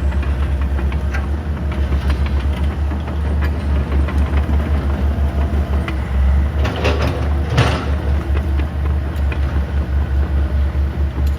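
Heavy diesel engine of earthmoving equipment running under steady throttle with a fast, even low beat. A few metallic clanks or scrapes come about two-thirds of the way in.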